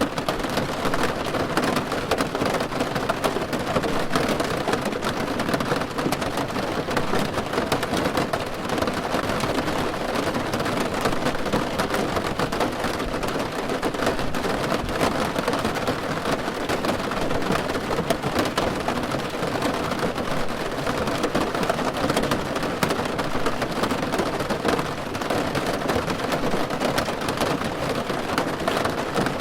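Steady, even rain falling on a car's roof, a dense patter of drops on the metal.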